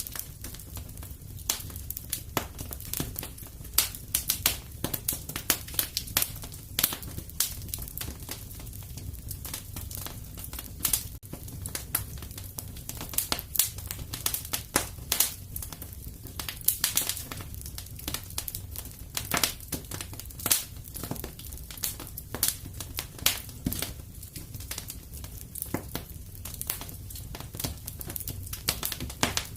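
Fire in a fireplace crackling: a constant irregular run of sharp pops and snaps over a low steady rumble.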